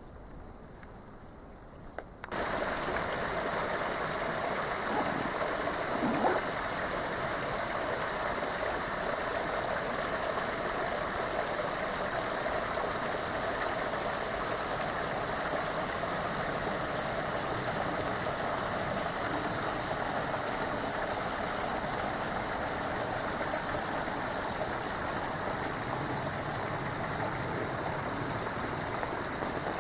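Steady rush of water running and pouring down the icy rock of a railway cutting. It jumps suddenly louder about two seconds in and then holds steady, with a couple of small clicks.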